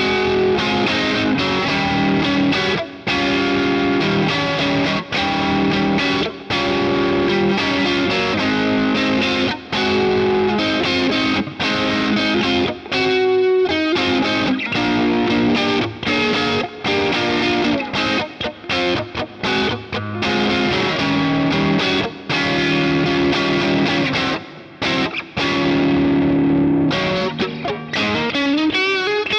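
LTD ST-213 electric guitar played through distortion: chords in a rhythm broken by short gaps, with a note bent upward and held at the very end.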